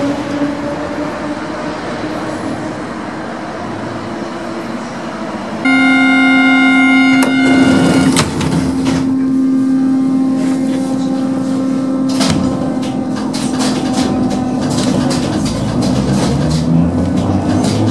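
HÉV suburban electric train running with a slowly rising whine as it comes into a stop. About six seconds in, a loud buzzer sounds for about a second and a half as the folding doors work. A low steady hum from the train then continues, with scattered knocks and clicks.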